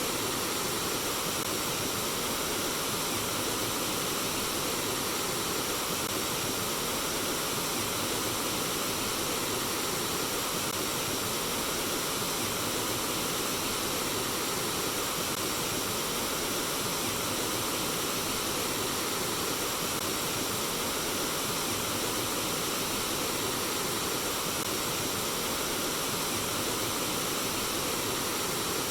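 Flowing water trickling and babbling, a steady unbroken rush.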